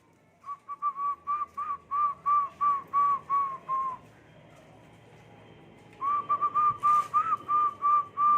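A person whistling short repeated notes at one steady pitch, about three a second, in two runs with a pause of about two seconds between them, to coax caged zebra doves (perkutut) into singing.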